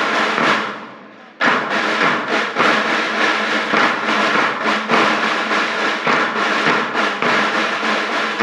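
Student band with drums and cymbals playing: a loud crash rings out and fades, then about a second and a half in the band comes back in loudly with a steady, driving drum beat under sustained held notes.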